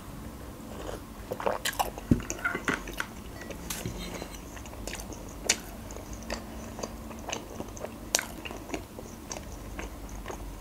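Close-up eating sounds: chewing and mouth clicks while eating a soft waffle topped with kiwi and chocolate, with many short sharp clicks scattered throughout.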